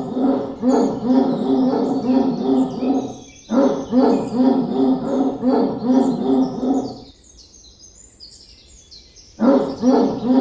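A dog barking in fast runs of about two barks a second, breaking off briefly after about three seconds, falling silent for about two seconds near seven seconds in, then starting again near the end. Birds chirp faintly behind it.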